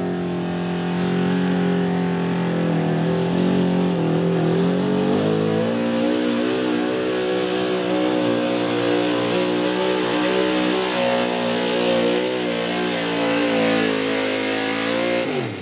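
Ford outlaw 4x4 pulling truck's unlimited-cubic-inch engine held at full throttle while pulling the weight-transfer sled. Its pitch steps up about five seconds in, holds, then falls away near the end as the throttle comes off.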